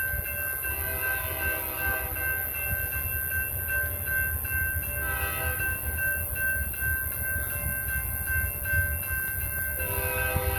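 Approaching BNSF locomotive's air horn sounding long blasts of a steady multi-note chord, with a short break about halfway through and another blast starting near the end, over a low rumble.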